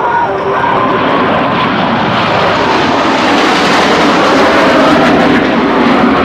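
US Navy F/A-18 Hornet jets flying past low, their jet roar swelling to a peak about halfway through.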